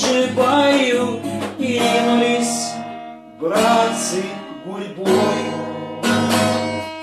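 Song sung by a man to an acoustic guitar. The voice carries on for the first second or so, then strummed guitar chords are struck every second or so and left to ring.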